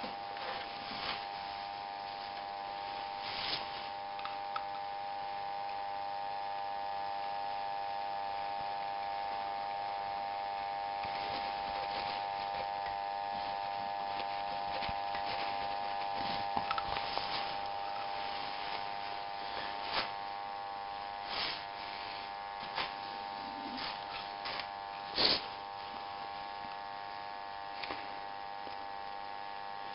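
Steady high-pitched electric hum with scattered clicks and light scrapes; the loudest click comes a little before the end.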